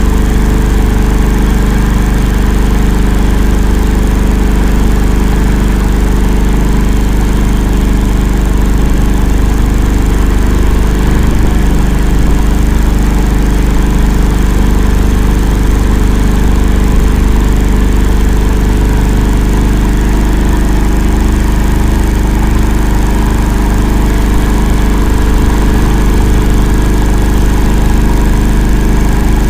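Engine of an Akula all-terrain vehicle running steadily at a constant speed while the vehicle drives through a swamp.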